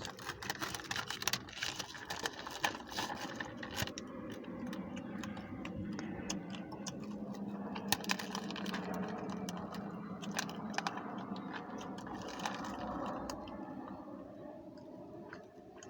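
Irregular small clicks and taps close to the microphone from someone eating and handling food, densest in the first few seconds. A low steady hum swells and fades in the middle.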